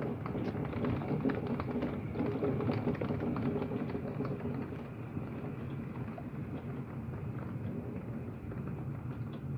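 Heavy thunderstorm rain pouring down, a dense hiss with many individual drops ticking against surfaces, easing slightly about halfway through; the hail has stopped.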